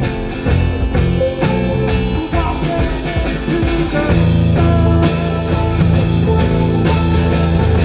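Live rock band playing an instrumental passage with electric guitar, bass and drum kit, the guitar bending notes. About halfway through the band moves into a louder, fuller section with sustained bass and steady cymbals.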